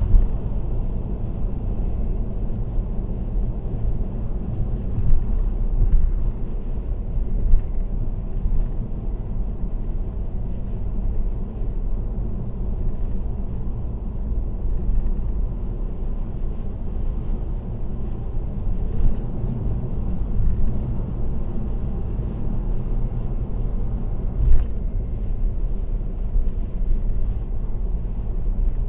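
Car driving at expressway speed: a steady low rumble of road and tyre noise, broken by a few brief thumps, the strongest about three-quarters of the way through.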